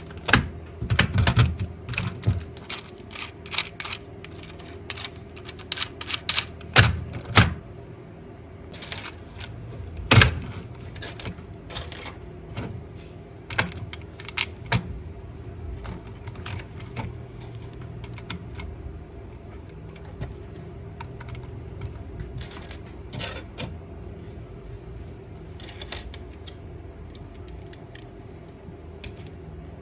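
Small hard plastic parts of a toy car clicking, tapping and rattling as they are handled and taken apart by hand. The clicks come thick and irregular at first and thin out in the second half, over a faint steady hum.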